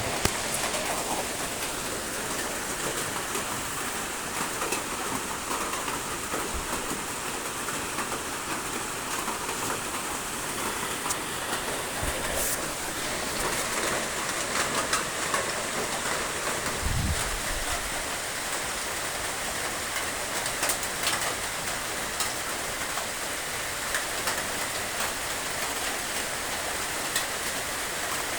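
Steady rain falling on a surface, with scattered sharp drop ticks over an even hiss. A brief low thump comes about two-thirds of the way through.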